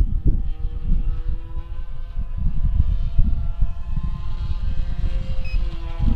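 Engine of a 1/7-scale Top Flite P-51D radio-control model plane running steadily in flight, its pitch drifting slightly up and down. Heavy wind buffeting on the microphone.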